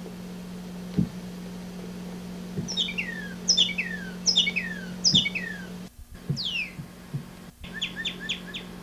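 A songbird calling: four downward-sliding whistled notes, then one more, then a quick run of short chirps near the end, over a steady low electrical hum.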